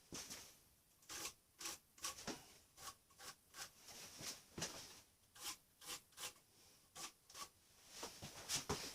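Faint, irregular short scraping or rubbing strokes, about one or two a second.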